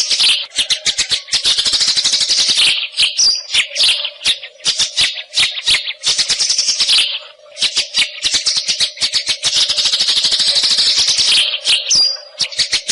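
White-rumped shama (murai hutan) singing a rapid, dry rattling chatter. Two short whistled notes break in, one about three seconds in and one near the end, and there is a brief pause around the seven-second mark.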